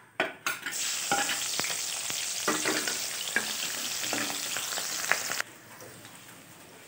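Sliced red onion and green chilli hitting hot oil in an aluminium kadai and frying with a loud sizzle, while a ladle knocks and scrapes against the pan as they are stirred. About five seconds in the sizzle drops suddenly to a quieter hiss.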